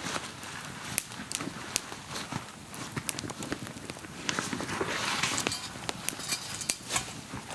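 Campfire crackling, with irregular sharp pops and snaps of burning wood and a short rushing hiss about five seconds in.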